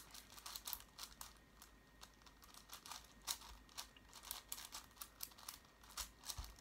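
A 6x6 puzzle cube being turned quickly by hand: a faint, irregular run of quick plastic clicks and clacks, several a second, as its layers snap round.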